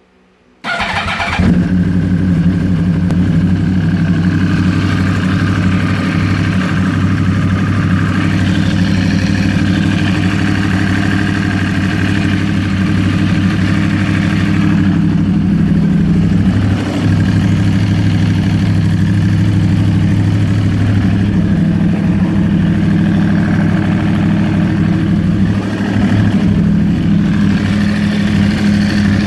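2012 Yamaha R1's inline-four engine starting under a second in, then idling steadily, with the ticking noise that its owner is recording.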